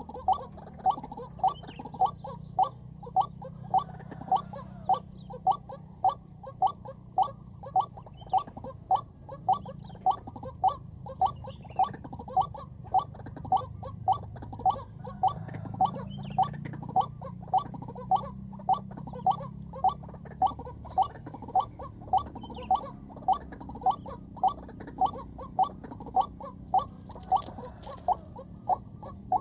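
White-breasted waterhen call: a short, low note repeated very evenly about three times every two seconds. A faint steady high tone runs throughout.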